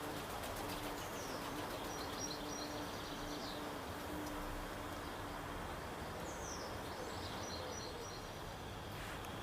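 A bird calling twice, about a second in and again near seven seconds: each call a short downward sweep followed by a quick run of high notes, over steady background hiss.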